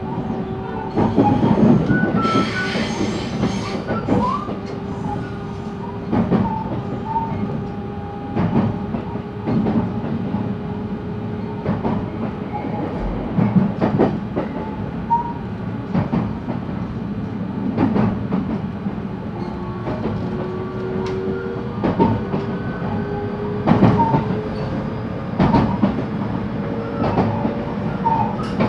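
JR West 223 series electric train running, heard from inside a motor car: wheels clacking over rail joints every second or two over a steady rumble, with a thin motor whine that rises slowly in pitch in the second half as the train gains speed.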